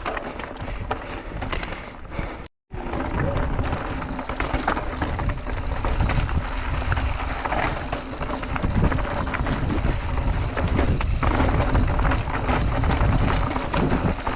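Scott Genius full-suspension mountain bike ridden fast down a rocky trail: wind rushing over the camera microphone, with tyres and frame rumbling and rattling over rock. The sound cuts out for a moment about two and a half seconds in.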